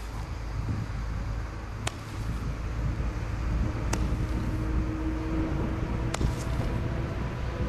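Garden firework going off: a steady rushing hiss with a low rumble, broken by a sharp crack about every two seconds.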